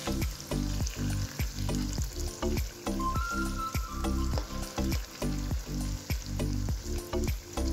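Fish curry frying in a wok, a steady sizzle and crackle of oil and gravy as it is spooned over the fish pieces. Background music with a steady beat plays throughout.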